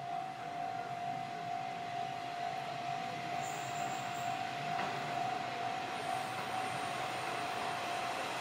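A steady high warning tone sounds throughout and cuts off at the very end, while a diesel railcar approaches, its running noise growing louder, with faint high wheel squeals in the second half.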